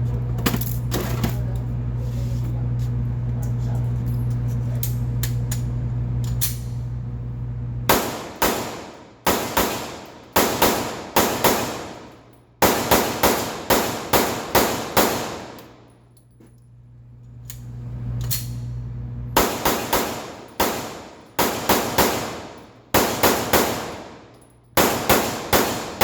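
Glock 19 Gen 5 9mm pistol fired rapidly in fast strings of shots, each shot sharp with a ringing tail, with a few seconds' pause midway. A steady low hum runs for the first third, before the shooting starts.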